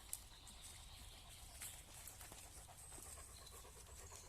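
Near silence with a dog panting faintly and a few soft crackles, like steps on a forest path.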